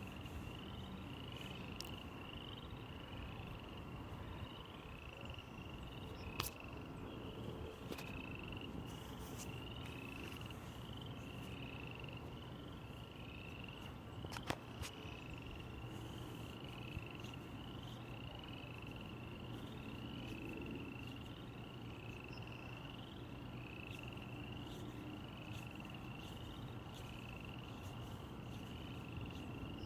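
A small animal chirping, a short high call repeated a bit more than once a second, over a steady hiss, with two sharp clicks.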